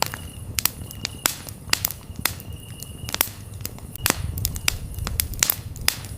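Campfire crackling, with sharp snaps and pops several times a second over a low rumble of the burning wood. Short high-pitched cricket trills come and go every second or so.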